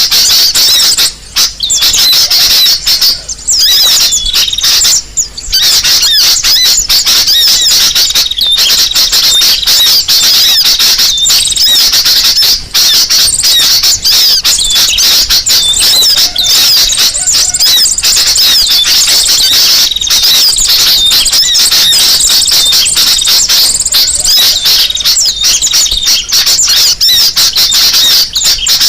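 Bird-lure recording of brown-throated sunbird calls mixed with sooty-headed bulbul calls: a loud, unbroken stream of rapid, high-pitched chirps and twitters, with a few brief gaps in the first five seconds.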